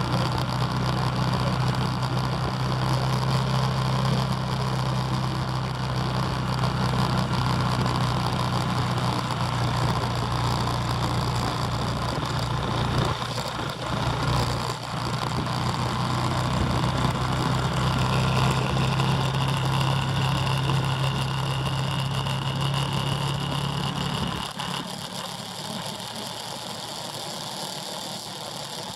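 Motorbike engine running at a steady speed, its note holding level, then falling away sharply about 24 seconds in.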